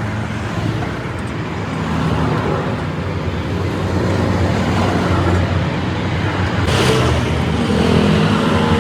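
Road traffic: vehicle engines running close by, a steady low drone with road noise, and a short hiss about seven seconds in.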